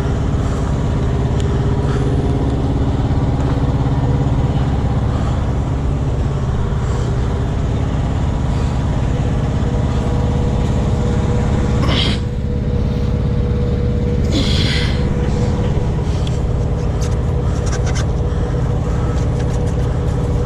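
Truck engine idling steadily with a low, even hum, with a few sharp clicks and knocks and a short hiss about two-thirds of the way through.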